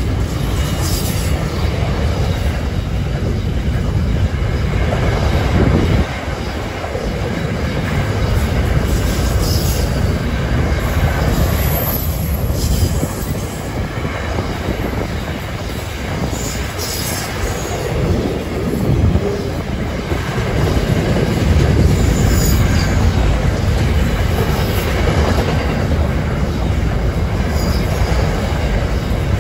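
Container wagons of a long freight train rolling past, their steel wheels running on the rails, with heavy wind buffeting the microphone.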